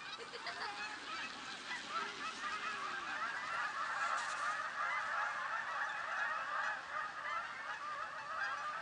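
A large flock of Canada geese honking together in a dense, continuous chorus of overlapping calls. The flock is being flushed and chased off the field.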